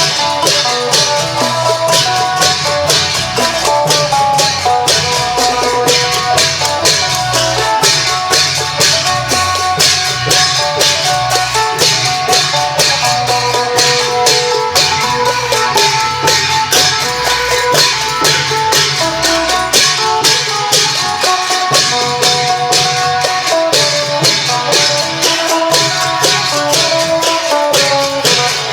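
Isan klong yao long-drum band music: a phin (plucked lute) playing a running melody over a steady drum beat and a fast, even stream of jangling cymbal-like percussion.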